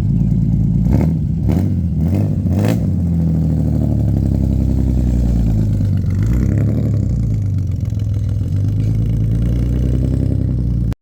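Ford Cortina 3.0 S's Essex V6 engine running, with the revs rising and falling twice. About a second in there are four sharp cracks in quick succession, about half a second apart.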